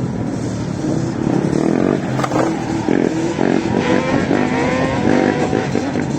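ATV engines revving, their pitch rising and falling over and over, with several engines overlapping.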